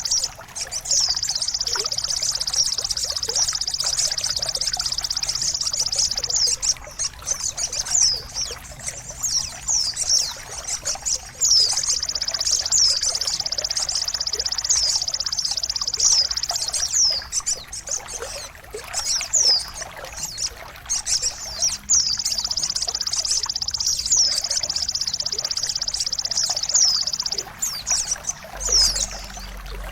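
Bird-song mastering track: many short, quick falling chirps and whistles from small songbirds over a continuous high buzzing hiss, which cuts out briefly three times.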